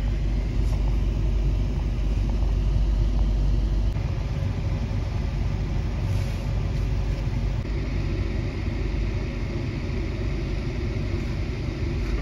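Steady low rumble of a passenger train rolling slowly along a station platform, heard from inside the coach; the deepest part of the rumble eases a little about four seconds in.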